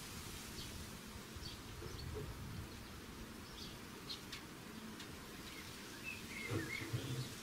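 Small birds chirping around a garden feeder: short high calls scattered throughout, then a louder wavering chirp with a couple of low knocks about six to seven seconds in.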